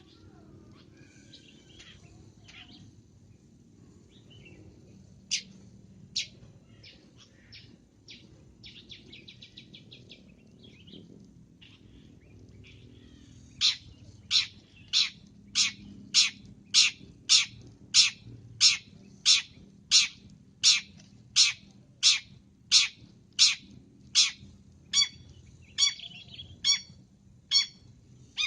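Long-tailed shrike (cendet) singing, first a varied string of softer chirps and short trills. About halfway through, it breaks into a long, even run of loud, sharp repeated calls, about one and a half a second.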